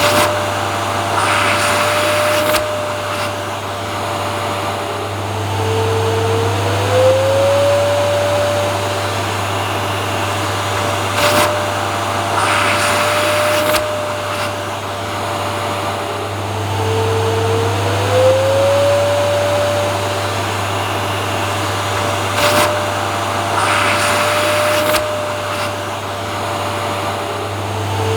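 Vacuum cleaner motor running steadily with a constant whine. About every eleven seconds the whine dips in pitch and glides back up, and short hissy swells and a few clicks recur in the same repeating pattern.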